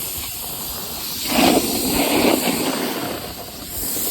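Snowboard edge and base scraping over snow, with a louder scrape of about a second starting a little over a second in, over steady wind rush on the microphone.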